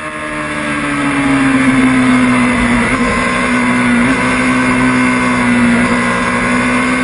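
Motorcycle engine running hard at high, nearly steady revs, its pitch dipping slightly and rising again, fading in at the start and out near the end.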